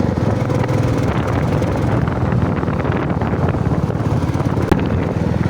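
Royal Enfield motorcycle engine running steadily under way, a continuous low pulsing rumble.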